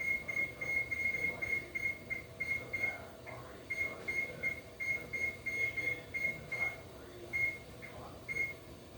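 Oven's electronic control panel beeping: a long string of short, high, single-pitch beeps, about three a second with brief pauses, as keys are pressed to set a 35-minute timer.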